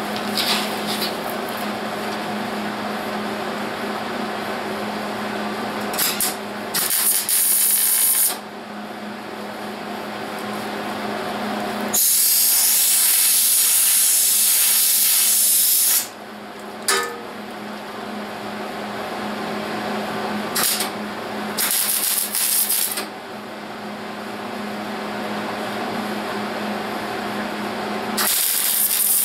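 Spot welding on the sheet-steel wheelhouse, short welding bursts alternating with hissing blasts of air sprayed on the welds to keep the metal from getting too hot, over a steady hum. The longest, loudest blast, about four seconds, comes near the middle.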